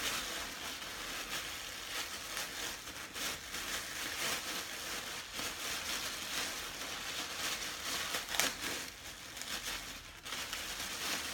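A bag rustling and crinkling as it is opened and rummaged through to pull out what is inside.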